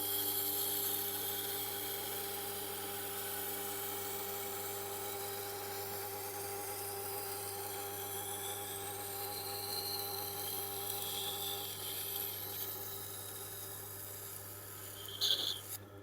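Steel knife blade being ground on the Tormek T8's slow-turning SG-250 wet grindstone: a steady hissing scrape of the edge on the stone over the motor's steady hum. A short louder scrape comes near the end as the pass finishes.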